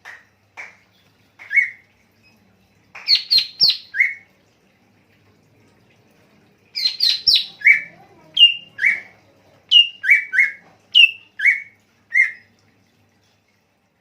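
Songbird giving a series of short, sharp calls, each sliding down in pitch, with quick runs of three higher notes about three and seven seconds in. The calls stop near the end.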